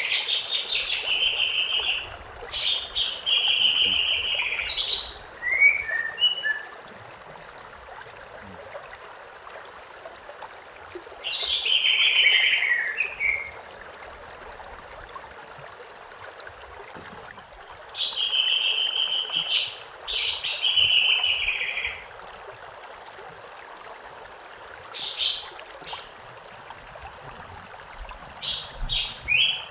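A stream trickling steadily, with a songbird singing short phrases of quick notes every few seconds, some of them falling in pitch.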